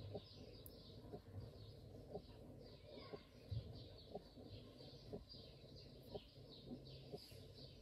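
Faint small birds chirping over and over in the background, with a few soft clicks from the plastic battery housing being handled.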